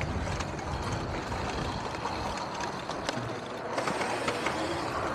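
Wind buffeting the microphone and tyre noise while riding an electric dirt bike: a steady, rumbling noise with a few faint knocks.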